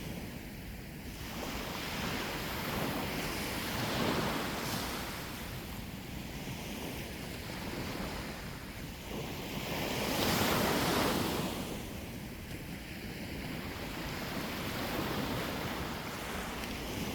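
Sea waves washing onto the shore, the surf swelling and ebbing, loudest about four and ten seconds in, with wind rumbling on the microphone.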